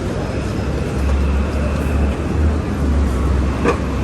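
City street traffic noise with a heavy low rumble that swells and drops, a faint steady high tone, and a brief click near the end.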